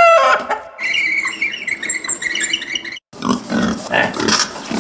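Domestic pig grunting: a run of rough, repeated grunts starting about three seconds in, after a shorter steady tonal sound.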